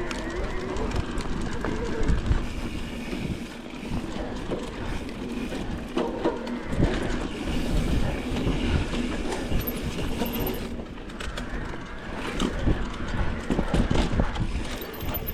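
Mountain bike rolling over a rough dirt trail, its frame and drivetrain rattling and clattering with irregular knocks over a steady low rumble.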